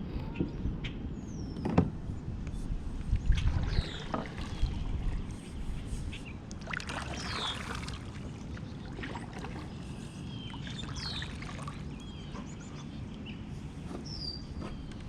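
Kayak paddle dipping and splashing in the water, with a steady low rumble of wind on the microphone. Birds call several times with short falling whistled notes.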